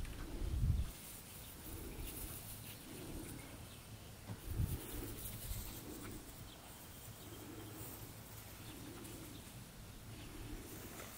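Soft, low bird cooing repeating about once a second, with two low thumps of wind or handling on the microphone, near the start and about halfway through.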